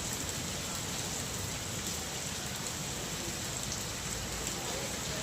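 Steady hiss of rain falling, with a few faint scattered drop ticks.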